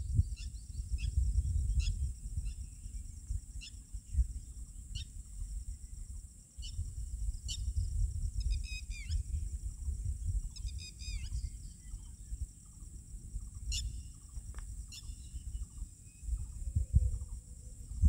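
Birds calling in short, repeated chirps and quick trills, over a steady low rumble and a constant high hiss.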